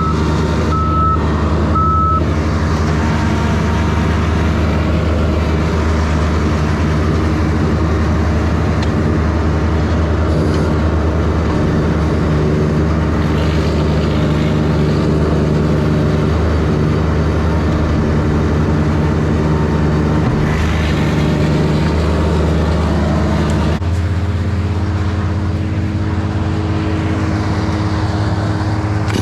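A heavy machine's engine running steadily, with a reversing alarm beeping about once a second for the first couple of seconds. About 24 seconds in the engine note shifts to a different pitch and keeps running.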